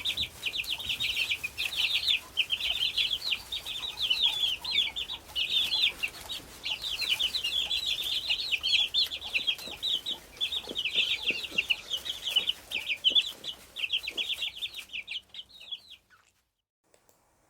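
Domestic chicks cheeping: a dense, continuous run of short, high, downward-sliding peeps, which stops about a second and a half before the end.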